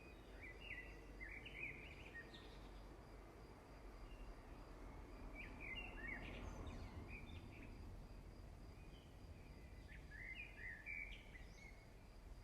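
Faint bird song: three short phrases of quick notes, roughly five seconds apart, over a low steady background rumble.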